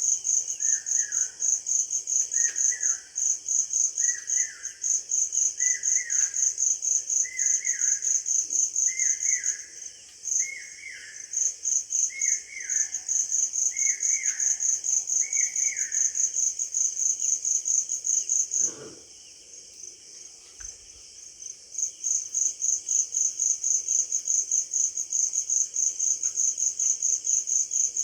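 A cricket chirping in a steady, rapid, high-pitched pulse, pausing briefly about ten seconds in and for a few seconds past the middle. Over the first half a bird repeats a short falling call about once a second, and a brief lower sound comes just past the middle.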